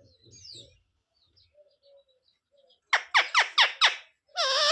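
Pet green parrot calling: a quick run of about six sharp, shrill squawks about three seconds in, then a longer call near the end.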